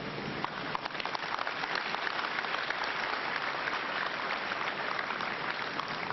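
Congregation applauding: many hands clapping, starting about half a second in and thinning out near the end.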